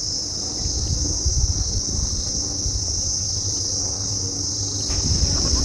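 Steady high-pitched drone of insects in the hillside forest, with an uneven low rumble underneath that grows heavier near the end.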